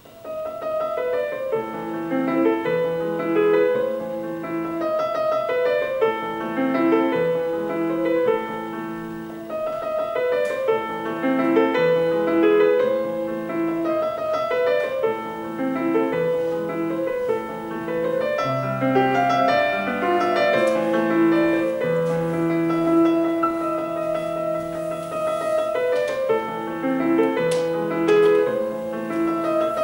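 Piano music played back through a small DIY speaker for a sound test, starting abruptly and continuing as a steady stream of piano notes.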